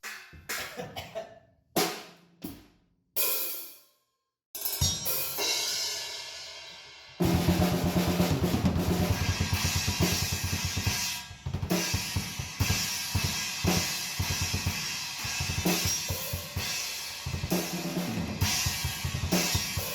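Drum kit played with a new 18-inch Saluda prototype Acid Rain china cymbal, which has a long decay and is not very trashy. First come a few separate hits and one china crash ringing out. About seven seconds in, a full groove starts, with rapid kick-drum strokes under the cymbal wash.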